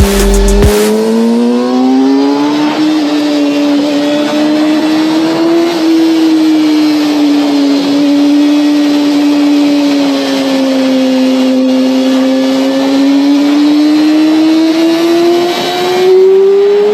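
Yamaha R6 inline-four engine running at high revs under way: its pitch climbs over the first few seconds, holds nearly steady with slow rises and falls, then climbs again near the end. Heard from a rear-mounted microphone, with a light hiss of wind.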